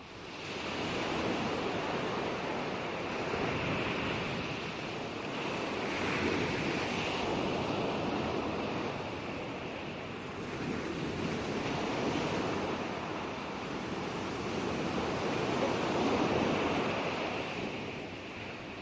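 Ocean waves breaking and washing up the shore, a steady wash of surf that swells and fades several times, about every four to six seconds.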